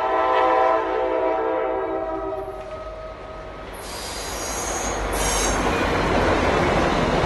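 Diesel freight locomotive's air horn sounding a held chord as the train reaches the grade crossing, dying away about three seconds in. It gives way to the growing rumble of the passing locomotives and double-stack container cars, with a brief high-pitched wheel squeal around four to five seconds in.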